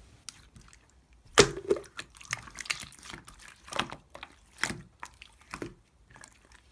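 Slime being squeezed and pressed by hand: a string of wet, sticky pops and clicks with crackling between them, starting after a quiet first second.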